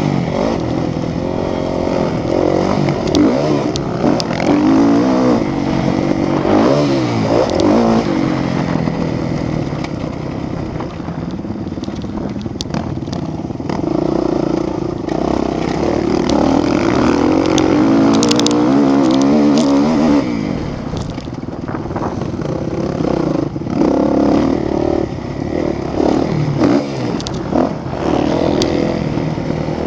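Motocross motorcycle engines revving, several bikes at once, their pitch rising and falling over and over as the throttles open and close.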